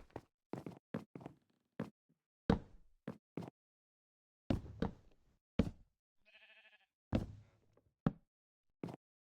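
About a dozen irregular knocks and clunks at uneven intervals, some louder than others. Around the middle comes a short, quieter pitched buzz with a fluttering quality.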